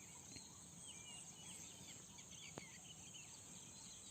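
Near silence: faint background bird chirps over a steady high hiss, with one faint tap about two and a half seconds in.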